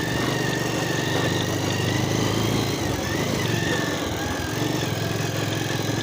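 Motorcycle engine running at low revs while riding slowly over a rough trail; the engine note drops off about three seconds in and picks up again about a second and a half later.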